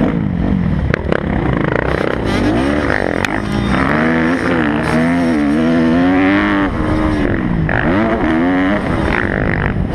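Kawasaki motocross bike engine revving hard, its pitch climbing and dropping several times as the throttle is opened and closed around the track. Heavy wind rush sounds underneath.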